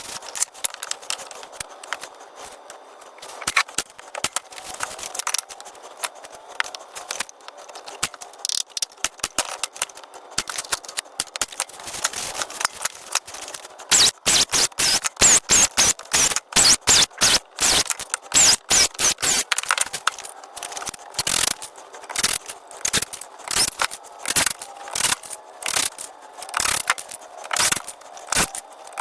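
A run of sharp clicks and knocks from work on a wooden base being fastened together with nails and screws. The knocks come faster and louder from about halfway through, at several a second.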